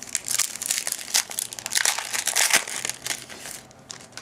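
Plastic foil trading-card pack wrapper crinkling and crackling as it is handled and torn open, a dense run of sharp crackles that stops about three and a half seconds in.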